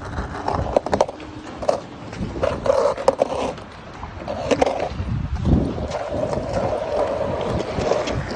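Skateboard wheels rolling and the board clacking several times, with a steadier rolling hum over the last couple of seconds. Wind buffets the phone's microphone with a low rumble.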